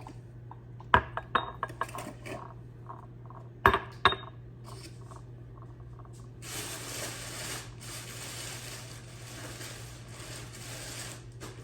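Drinking cups being handled and set down, knocking against each other and a hard surface in a few sharp clinks that ring briefly, the loudest about a second in and around four seconds in. Then a steady hiss for about five seconds.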